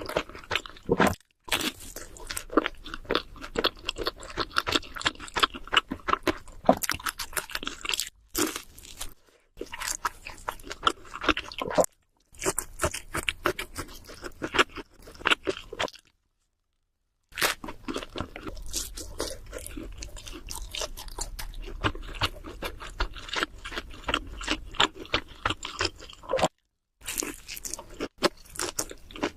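Close-miked chewing and crunching of cheese seafood pizza: dense wet crackles and crunches, cut off abruptly several times by brief dead silences, one of about a second and a half in the middle.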